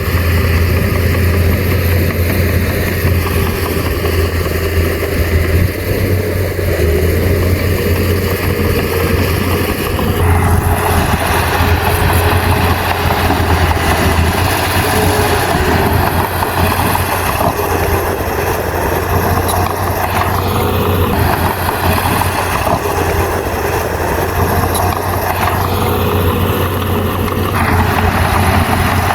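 Bulldozer's diesel engine running steadily with a deep hum, joined by a rougher, noisier rush, likely from working under load, that comes in about a third of the way through and eases off near the end.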